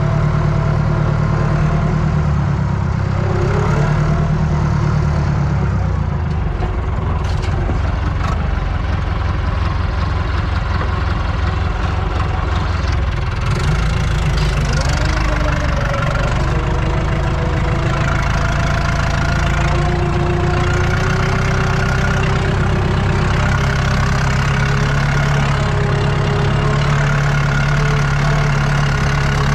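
Tractor diesel engine running steadily under load while pulling a cultivator, heard from inside the cab, with a brief shift in engine note about halfway through.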